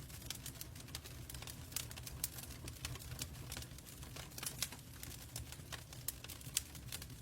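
Log fire crackling in a fireplace: irregular sharp pops and snaps from the burning wood over a steady low rumble of the flames.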